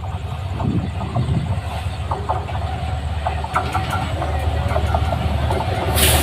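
Passenger train running on the rails: a steady low rumble with scattered wheel-on-rail clicks, growing louder toward the end.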